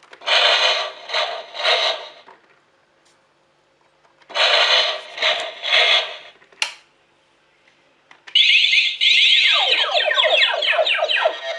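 Electronic play mat's speaker playing sound effects: two runs of three short, hissy bursts, a sharp click, then a fast warbling tone that falls in pitch near the end.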